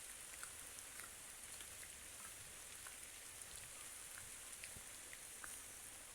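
Faint light rain: a steady high hiss with scattered soft drip ticks.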